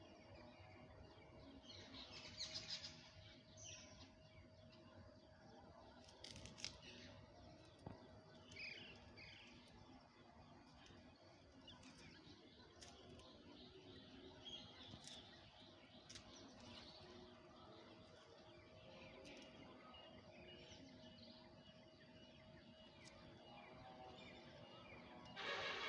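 Faint outdoor ambience with birds chirping now and then, the loudest chirping near the end, over a faint steady hum and a few soft clicks.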